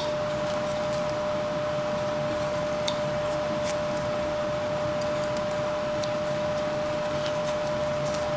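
Steady background hum with one constant mid-pitched tone, broken by a few faint clicks of a carving knife cutting into wood.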